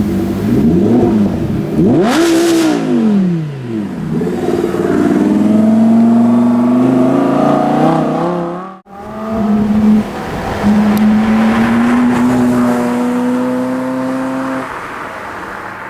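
Performance car engine revved twice, its note rising and falling each time, then accelerating with a steadily climbing note; after a sudden break, an engine pulls away again with a slowly rising note.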